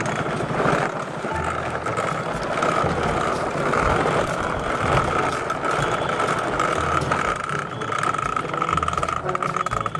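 Vehicle engine running steadily as the vehicle drives on.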